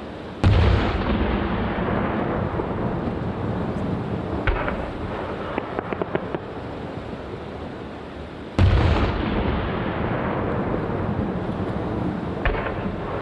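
Aerial firework shells bursting: two loud booms, about half a second in and about eight and a half seconds in, each trailing off in a long rolling echo. Smaller pops and crackling from lesser bursts come in between and near the end.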